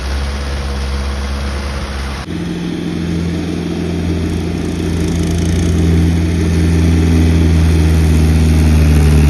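Mahindra tractor's diesel engine running hard under load, a steady deep drone that grows louder toward the end, with an abrupt change in the sound about two seconds in.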